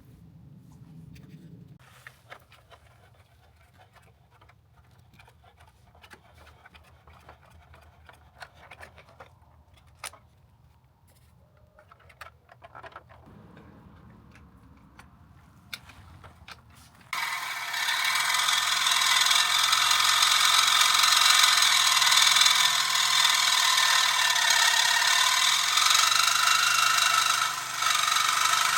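Faint clicks of tools and parts being handled. Then, about seventeen seconds in, the 2005 Yamaha R1 motorcycle's engine suddenly comes in loud and keeps running, its pitch wavering slightly near the end.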